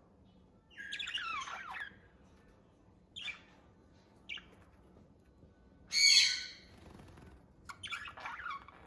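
Budgies chirping and chattering in about five short bursts of quick, warbling calls, the loudest and harshest about six seconds in.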